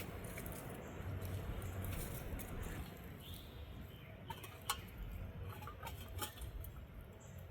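Scattered light clicks and small rustles of camp gear being handled, over a steady low rumble.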